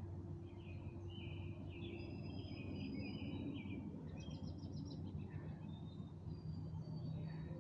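Birds calling and singing at dusk: a chattering phrase in the first half, then a quick run of repeated high notes a little past the middle, and a few short calls near the end, over a steady low outdoor rumble.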